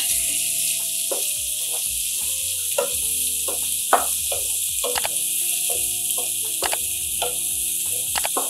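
Potato pieces and chopped onion sizzling in hot oil in a non-stick pan: a steady hiss, with scattered sharp clicks of a metal spatula stirring.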